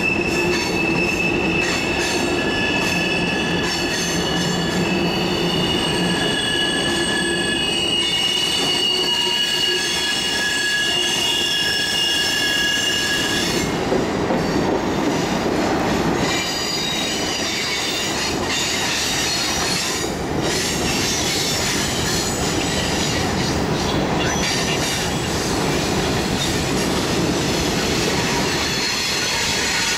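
Freight train of hopper cars, tank cars and boxcars rolling past, its steel wheels squealing in several high steady tones over the rumble of the cars. The squeal breaks off about halfway through and comes back at other pitches.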